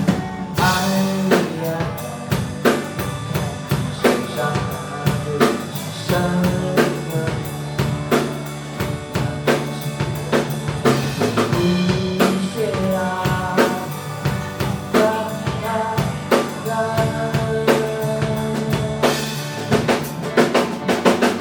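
A band playing an instrumental passage: a drum kit keeps a steady beat with snare and bass drum under a bass line and a melodic line, and a busy drum fill comes near the end.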